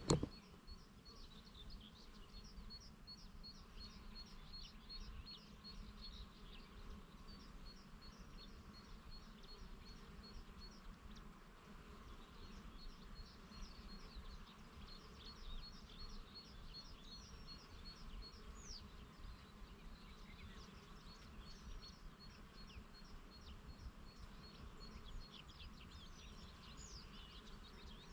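Faint buzzing of bees among flowers, with small birds chirping throughout in quick runs of short, high repeated notes.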